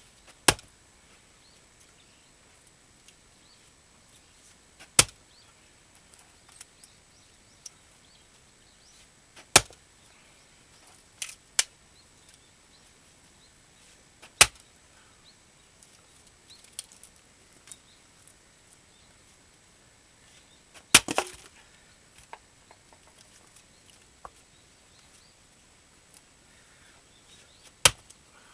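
Axe strikes on a dried larch round being split for firewood, one sharp chop every four to five seconds, about seven in all, with a quick double blow near the middle. One blow about two-thirds through is followed by a brief clatter of wood.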